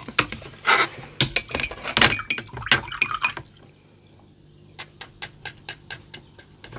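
Paintbrush handling and splattering paint: a flurry of clicks and wet scrapes, then a run of light, quick taps about four a second, typical of a loaded brush being tapped to flick paint spatters onto a card.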